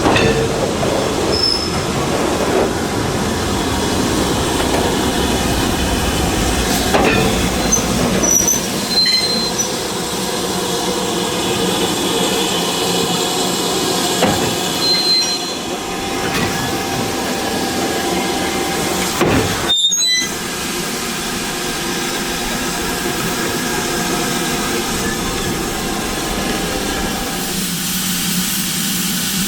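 Train rolling along rails: a steady rumble of wheels and carriages, with a few brief high wheel squeals. The sound changes abruptly about two-thirds of the way through.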